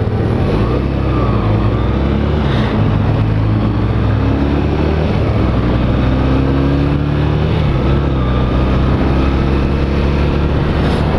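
Honda CB250 Nighthawk's parallel-twin engine running under way, its pitch rising and falling several times, over a steady rush of wind and road noise.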